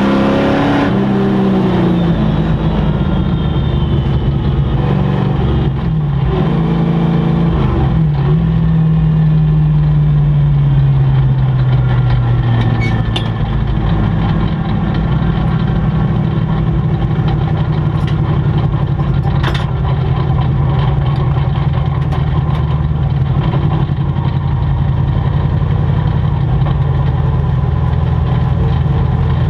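A sport truck's race engine slowing: its pitch drops in steps a few seconds in, then it runs low and steady at slow speed.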